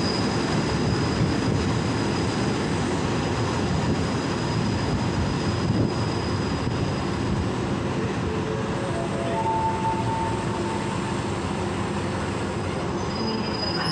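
Passenger train rolling slowly into a station, heard from the train: a steady rumble of wheels on rail. A faint high-pitched squeal runs through the first half, and short squealing tones come about nine to ten seconds in.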